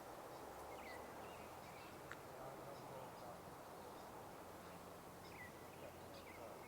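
Faint, scattered short bird chirps, high and sliding down in pitch, a few seconds apart, over a steady low outdoor hiss.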